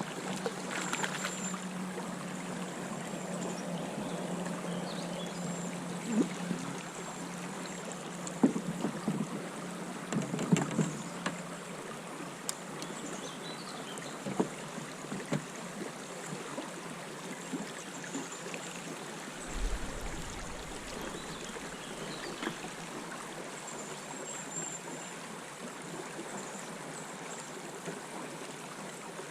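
River current rushing steadily, with a few scattered knocks and clicks.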